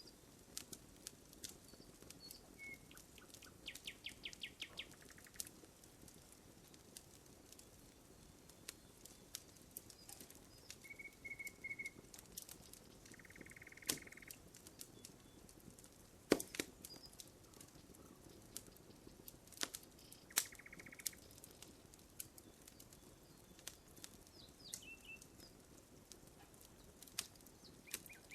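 Burning wood crackling with scattered sharp pops, the loudest about two-thirds of the way through. Small birds call in the background: a quick trill, three short notes, and two brief buzzy trills.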